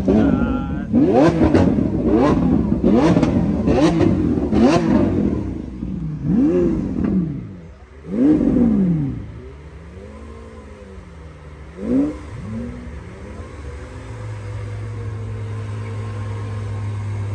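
A car engine revved hard in a run of quick blips, then a few slower revs, settling into a steady idle about fourteen seconds in.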